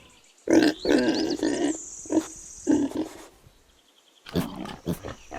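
Domestic pig grunting: a run of short grunts over the first few seconds, a pause of about a second, then more short grunts near the end.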